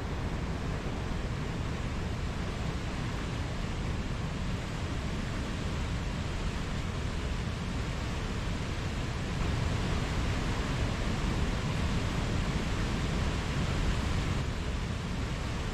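Mountain stream rushing steadily over rocks, a constant full water noise that swells slightly for a few seconds in the middle.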